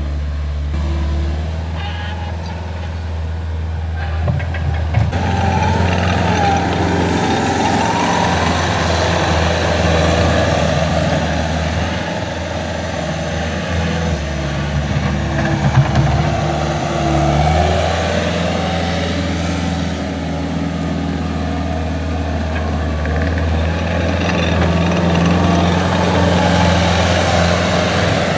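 Heavy construction machine's engine running steadily with a low hum; from about five seconds in, a loud rattling, hissing machine noise joins it.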